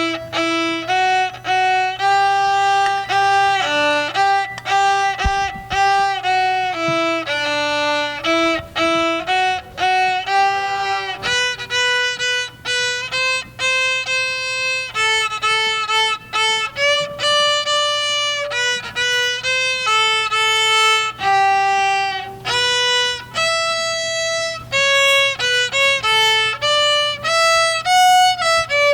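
Solo violin playing a melody of held notes, one after another, with no accompaniment.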